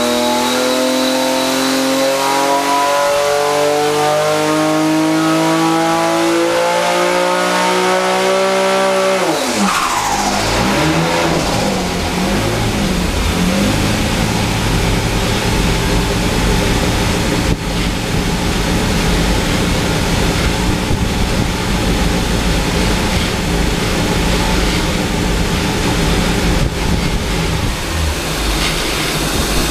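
Nissan VG turbocharged V6 running on an engine dynamometer. Its revs climb steadily under load for about nine seconds, then the throttle shuts and the revs drop quickly. It runs on at a steady lower speed for the rest.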